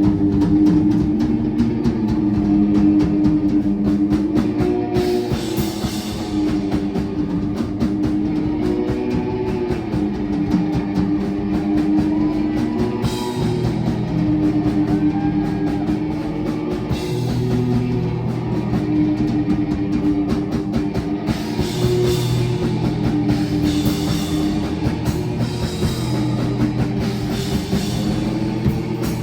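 Live rock band playing an instrumental passage: drum kit keeping a steady beat under sustained guitar and bass notes.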